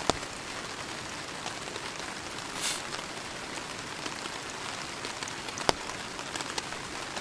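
Heavy rain falling steadily on a camping shelter, individual drops landing as sharp ticks. A brief hiss comes about two and a half seconds in, and a louder tick a little before six seconds.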